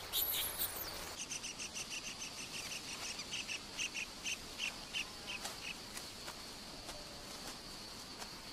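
Forest ambience: a bird calling a long series of short, evenly spaced notes, about three a second, over a steady high-pitched insect drone. A few brief high chirps come at the very start.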